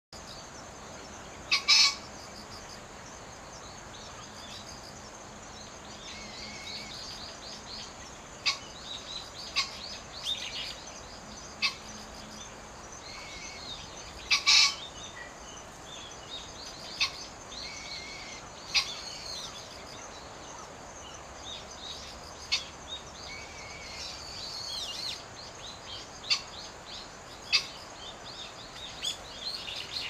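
Wild birds calling and singing: many short chirps and whistles throughout, with loud sharp calls about two seconds in and again near the middle, over a steady background hiss.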